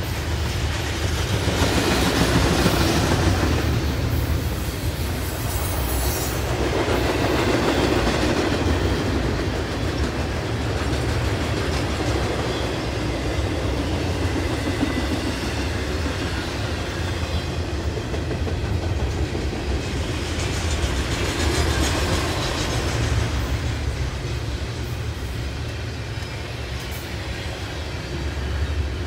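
Double-stack intermodal well cars rolling past on steel wheels: a steady rumble of wheels on rail with some clickety-clack, swelling and easing as groups of cars go by.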